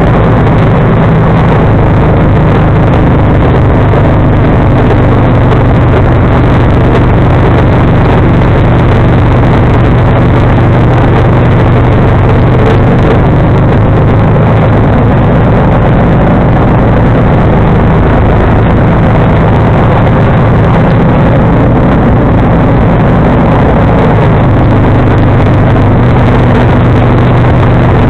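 John Deere 445 garden tractor's liquid-cooled V-twin engine running loud and steady at working speed, with no change in pitch.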